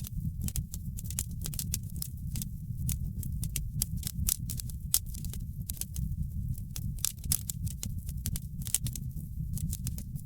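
Wood fire in a fireplace crackling: many sharp, irregular pops and snaps, several a second, over a steady low rumble.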